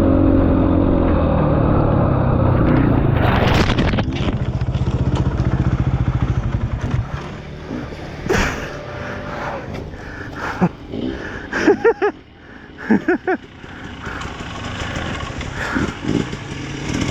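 Dirt bike engine running under throttle, dropping to a slow, even chug about four seconds in; after that it is quieter, with short knocks and clatter.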